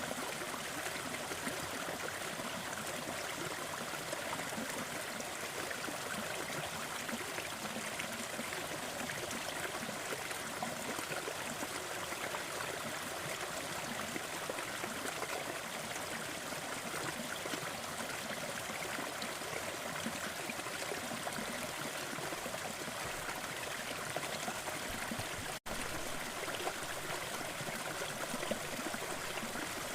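Fireplace crackling over a steady bed of rushing noise, with fine, dense crackles. The sound cuts out for an instant about three-quarters of the way through.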